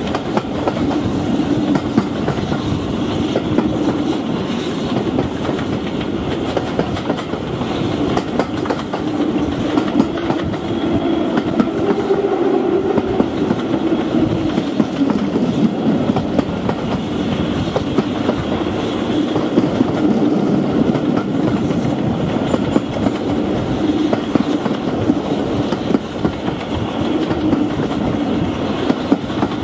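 Heard from the window of a moving passenger carriage: a steady running rumble from the coach's wheels on the track, with many small clicks and knocks throughout.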